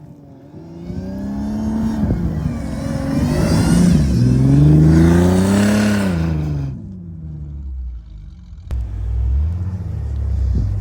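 A 4x4's engine revs up and down hard, its pitch climbing and falling twice over several seconds, with a rushing hiss over it. Near the end it settles to a lower, steadier running.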